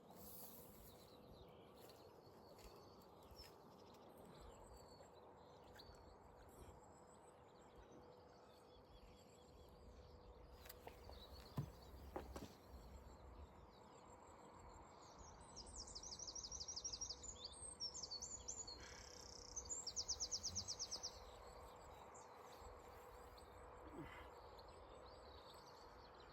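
Quiet outdoor ambience with a small bird singing: fast, rapidly repeated high trills for several seconds past the middle, plus a couple of faint clicks.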